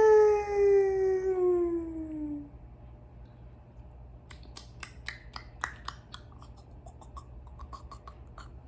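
A voice holds one long note that slides steadily down in pitch for about two and a half seconds. From about four seconds in comes a run of small, quick clicks and taps.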